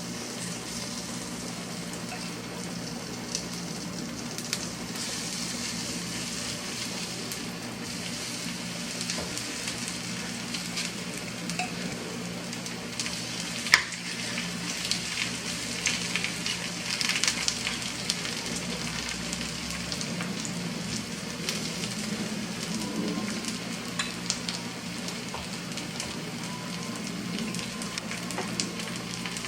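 Food frying in a pan, a steady sizzle with scattered sharp crackles and one loud click about 14 seconds in, over a steady low hum.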